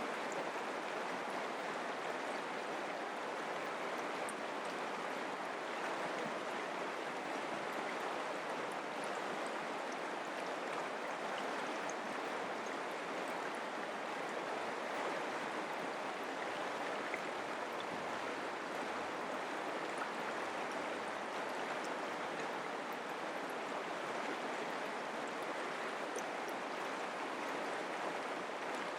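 Mountain creek flowing: a steady rush of water over stones, with faint splashes.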